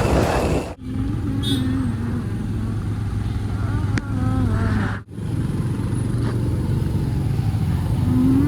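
Road traffic heard from a motorcycle on the move: a steady engine hum under road and wind noise. The sound cuts out briefly twice, and faint voices come through.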